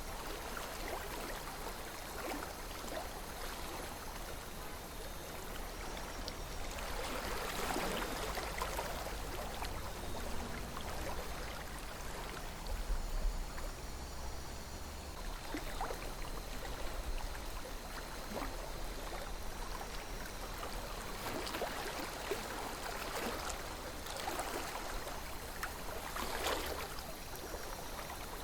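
Calm river water flowing and burbling steadily, swelling a little louder a few times, with a steady low rumble underneath.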